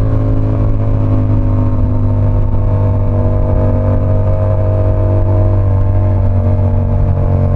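Yamaha R7's 689 cc parallel-twin engine running under way at a fairly steady engine speed, a continuous loud engine note.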